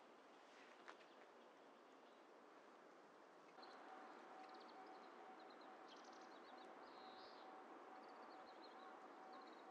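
Faint outdoor ambience. About three and a half seconds in, small birds begin chirping and a faint steady electronic tone starts, with brief breaks in it.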